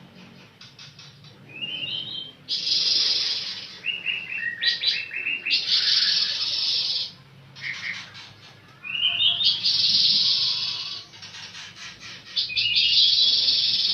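Pancawarna songbird singing: about four loud, high phrases of rapid twittering, several opening with a short rising run of stepped notes, separated by brief quieter pauses.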